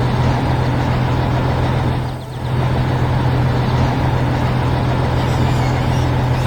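A heavy vehicle engine running steadily, with a strong low hum, easing off briefly about two seconds in and then running on.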